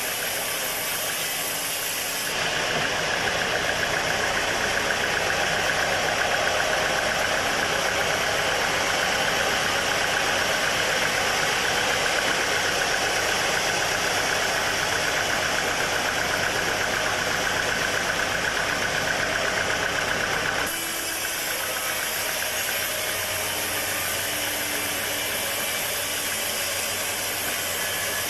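Sawmill machinery running steadily with a mechanical engine-like drone. It gets louder and higher from about two seconds in until about twenty seconds in, then drops back abruptly.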